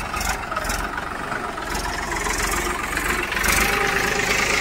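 Tractor diesel engine running, growing louder about three and a half seconds in.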